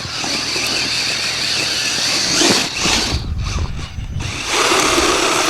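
Radio-controlled off-road model car driving on the track, its motor whining high and its wheels churning over dirt. The sound swells about halfway through, and a low rumble joins it from about three seconds in.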